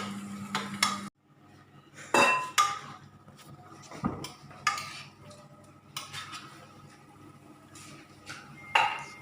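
Kitchen utensils and dishes clinking and knocking in scattered sharp strikes. A steady low hum cuts off suddenly about a second in.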